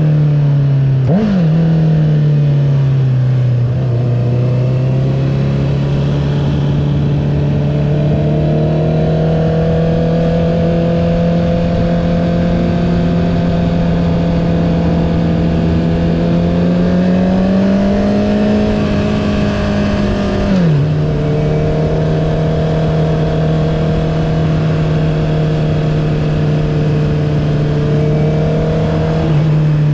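Honda CB650R's inline-four engine running through an Akrapovic titanium full-system exhaust with the dB killer removed, at steady cruising revs. The pitch dips about a second in, climbs slowly, then drops abruptly about two-thirds of the way through and holds steady again.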